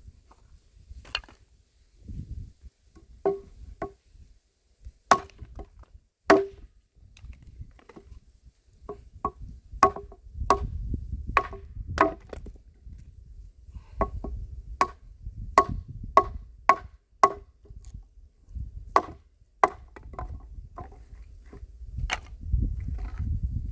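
A handmade axe chopping wood: sharp, ringing strikes in several runs of about two a second, with short pauses between the runs.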